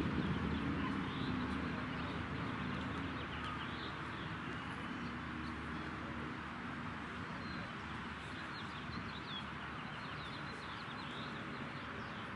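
Outdoor ambience: a steady background hiss with small birds chirping on and off. A low rumble is a little louder in the first couple of seconds.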